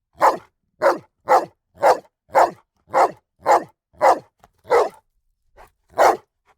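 Dog barking in a rapid series, about two barks a second, ten barks in all, with a brief pause before the last one.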